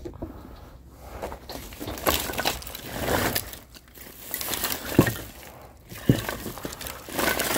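Firewood being handled: rustling and crunching of wood, with two sharp knocks of logs about five and six seconds in.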